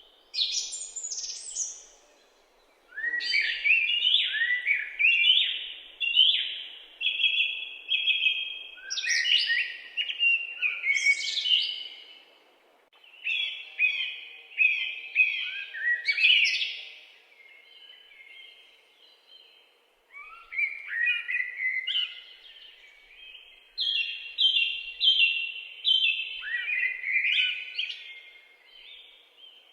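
Songbirds chirping in woodland: phrases of rapid, short high notes lasting several seconds each, repeated almost without a break, with short pauses about two seconds in and again a little past halfway.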